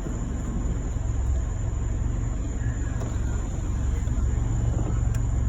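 Fire engine idling on scene, a steady low rumble.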